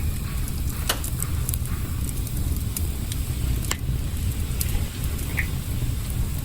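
Campfire crackling, with chicken breast sizzling as it cooks over the fire, over a steady low rumble; a few sharp pops stand out in the first four seconds.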